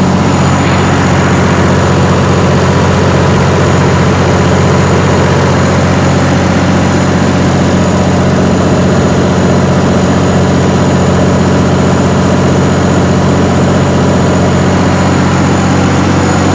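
White Motor Company engine driving a 100 kW Kohler generator, running steadily at its governed speed with an even, unchanging drone.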